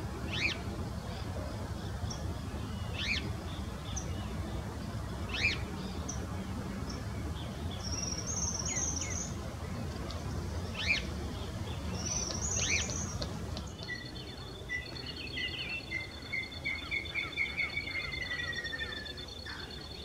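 Suiriri flycatcher (suiriri-cinzento) calling: short sharp notes every couple of seconds and two brief high buzzy chatters, over a low background rumble. About fourteen seconds in, the sound changes to other birdsong: a long steady high trill and a descending run of notes.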